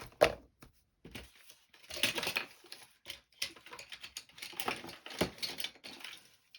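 Small loose objects rattling and clattering as someone rummages through a disorganised container of craft supplies, a rapid irregular run of clicks and scrapes that is busiest from about two seconds in.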